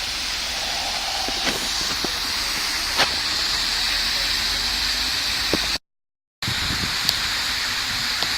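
River fountain jets spraying water up and splashing back down: a steady rushing hiss. The sound breaks off completely for about half a second near the end.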